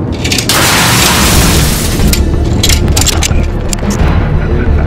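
A deep boom with a rushing whoosh swelling in about half a second in, over background music with a steady deep bass. From about two seconds in, a string of short sharp clicks comes at irregular intervals.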